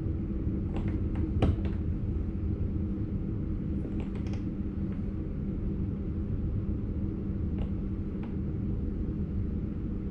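Cab of an NS Sprinter Light Train electric multiple unit: a steady low rumble and hum, with a few short clicks and knocks, a cluster about a second in and more around four and eight seconds in.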